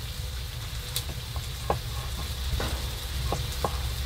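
Food sizzling steadily in a pan on a woodstove, with a few light clicks and taps of handling scattered through.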